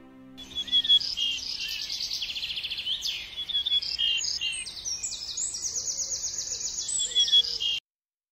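Birdsong: a busy run of high chirps and fast trills, several calls overlapping, that cuts off suddenly near the end.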